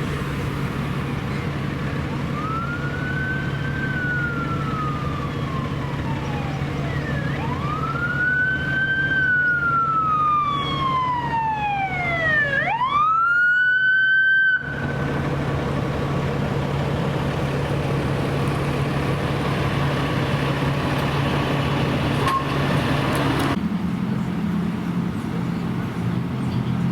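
Rescue ambulance siren wailing in slow rising and falling sweeps, then a quick rise held high for about two seconds before it cuts off suddenly. A steady low engine hum runs underneath.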